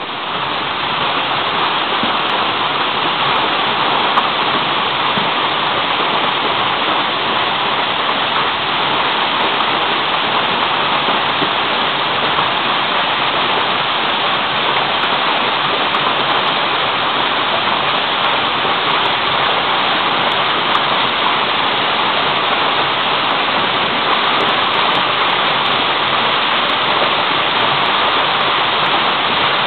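Mountain waterfall rushing steadily: a loud, even roar of falling water.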